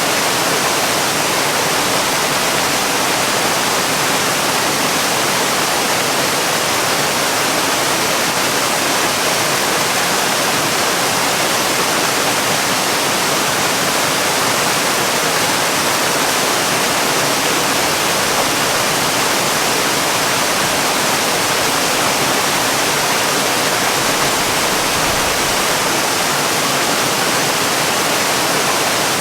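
Waterfall: falling water making a steady, even rush, mostly hiss with little low rumble.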